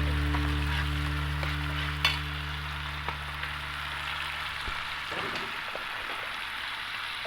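Hot oil sizzling steadily as chicken fries, with a couple of light knocks about two and three seconds in. A low held music tone fades out over the first few seconds.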